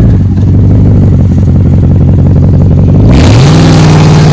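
Straight-piped pickup truck engine running loud at a steady low rumble, then about three seconds in revving up quickly and holding at higher revs with a sudden harsh rush of noise.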